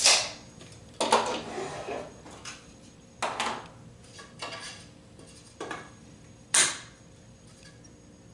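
Metal parts of a miter gauge fence and stop being handled: about six separate clacks and short scrapes, roughly a second apart, the loudest at the start.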